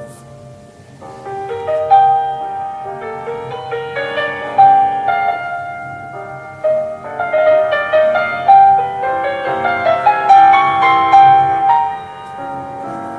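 Classical piano music: a melody of many struck notes over chords, growing fuller and louder after about two seconds.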